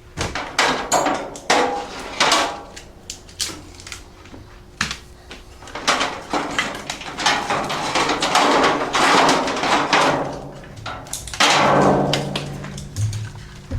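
Irregular clunks, knocks and scraping clatter from hands and tools working on a motorcycle, with several longer rustling, scraping stretches between the knocks.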